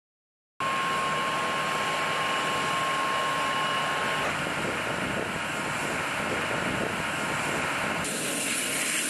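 A steady, loud rushing noise with a thin high whine, like a jet engine, starting abruptly about half a second in; the whine drops out about four seconds in and the noise shifts abruptly near the end.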